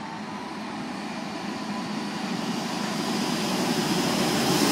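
Diesel passenger train approaching along the track, a steady rumble of engine and wheels on rail growing steadily louder as it nears.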